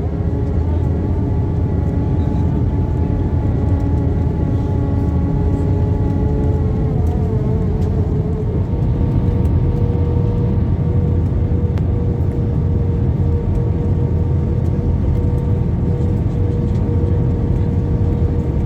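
Airliner cabin noise: a steady low rumble from the engines and airflow, with a few humming engine tones above it that shift in pitch about seven seconds in.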